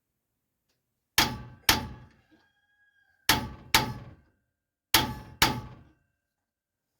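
Hammer striking metal, driving a part in: six ringing blows in three pairs, about a second and a half between pairs.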